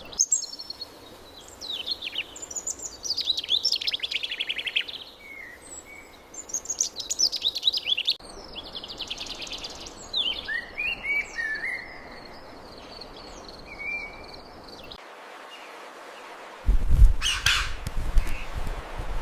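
Songbirds singing, with repeated chirps and quick trilled phrases over a faint steady hiss. About three-quarters of the way through the birdsong stops and a louder low rustling rumble takes over to the end.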